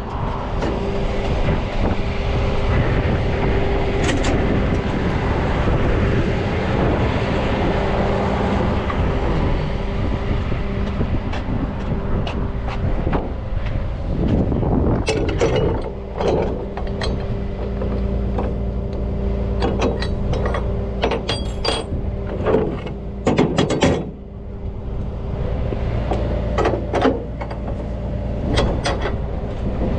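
Tow truck engine running with a steady hum, over scattered metallic clanks and rattles of winch line and rigging being pulled out, busiest in the middle and near the end.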